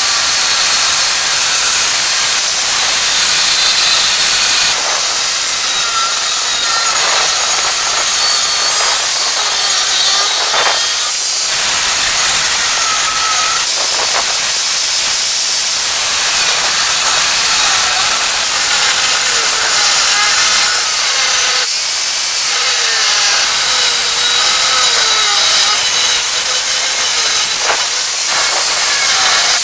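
Power grinder working the steel of a saw-blade knife blank: a steady, loud hissing grind with a slightly wavering pitch under load, easing off briefly a couple of times.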